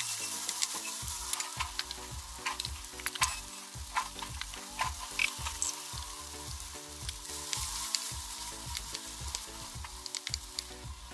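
Chopped okra frying in oil in a pan, sizzling steadily, with scattered clicks and scrapes from a wooden spatula stirring it.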